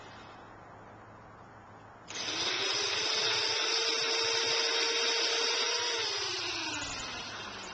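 Two-stroke chainsaw revved up suddenly about two seconds in, held at high revs for about four seconds, then winding back down.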